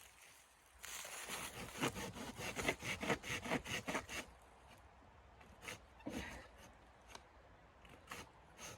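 A quick run of rasping strokes for about three seconds, several a second, then a few faint scrapes and taps.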